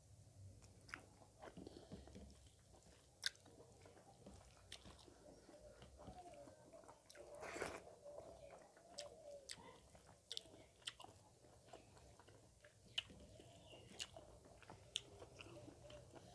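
Faint mouth sounds of a man eating pork and rice with his fingers: chewing with many scattered wet clicks and lip smacks, and one louder rush of noise about seven and a half seconds in.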